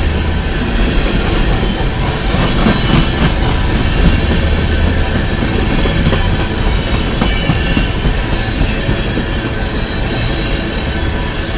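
Empty coal gondola cars of a freight train rolling past, a steady rumble of steel wheels on rail with scattered wheel clicks.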